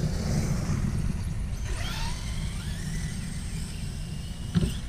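Electric RC car's brushless motor whining, its pitch gliding up and down as it speeds up and slows, over a steady low rumble of wind on the microphone. A single thump near the end.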